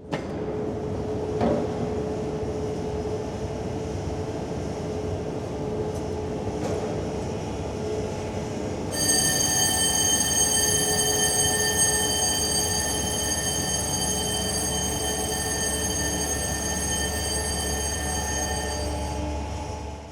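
Ship's engines running with a steady low rumble and a constant hum. A knock comes about a second and a half in. A high steady whine cuts in about nine seconds in and stops shortly before the end.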